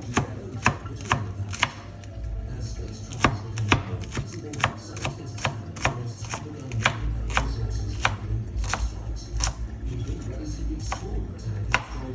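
Kitchen knife chopping spring onion on a cutting board into small pieces: a steady run of sharp chops, about two a second.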